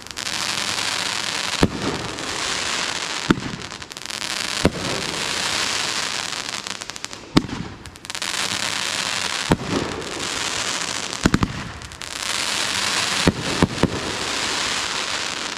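Aerial fireworks going off in a string: sharp bangs about every one and a half to two seconds, each followed by a long hissing crackle.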